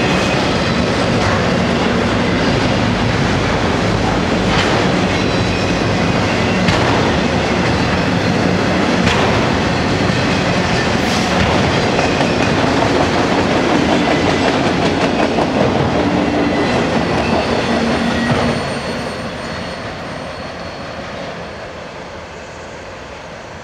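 Freight train of autorack cars rolling past close by: steady rumble and clatter of steel wheels on the rails, with a few sharp clacks. The sound drops off quickly about three quarters of the way through as the last car passes and the train moves away.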